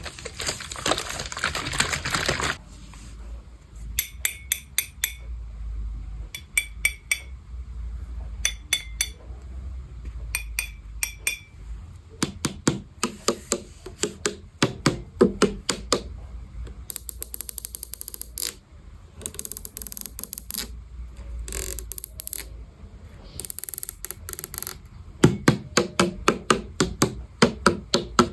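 Sharp tapping and clicking on hard objects in quick runs of several strikes, opening with about two seconds of scratchy rustling and broken by a few brief hissy scratches.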